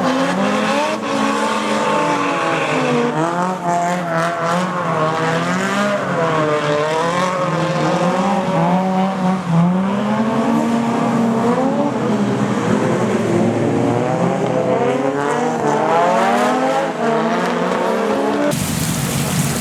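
Drift cars' engines revving hard up and down, several at once, with tyres squealing as they slide. About a second before the end the sound cuts abruptly to the steady hiss of rain.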